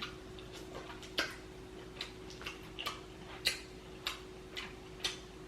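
Quiet, irregular wet clicks and lip smacks of someone chewing seafood close to the microphone, with a faint steady hum underneath.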